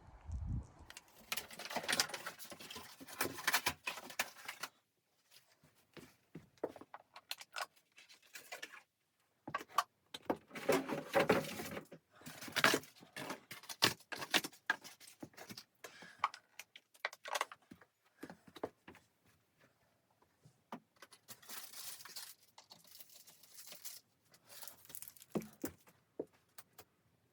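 Handling noises: irregular bursts of rustling and clatter, made of many small clicks and knocks, with short pauses between them.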